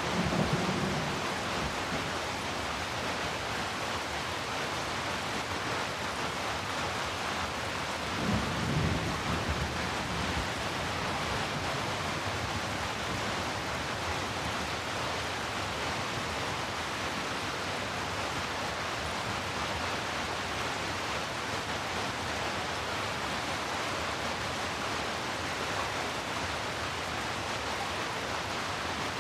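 Steady rain falling, an even hiss, with a brief low rumble just at the start and another about eight seconds in.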